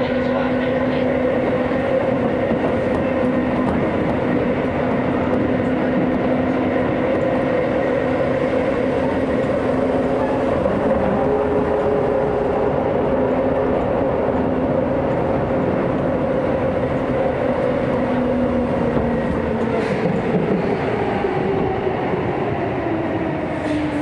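Hokuso Railway 9000-series commuter train running through a subway tunnel, heard from inside the car: a steady loud rumble of wheels and rails with a constant motor hum. Near the end the hum falls in pitch as the train brakes into a station.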